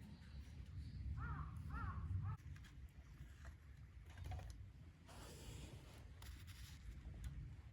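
A crow cawing three times in quick succession about a second in, over a steady low rumble, with some rustling later on.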